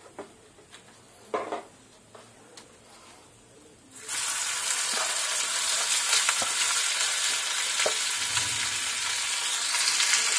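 A piece of chicken going into hot frying oil. A loud, steady sizzle starts suddenly about four seconds in, after a few soft knocks.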